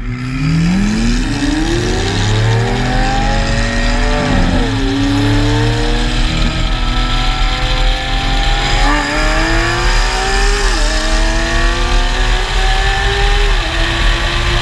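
A Lamborghini Aventador V12 and a tuned McLaren 570S twin-turbo V8 accelerating side by side at full throttle. The engine note climbs steadily, breaks off and climbs again with each of several upshifts, over heavy wind rush.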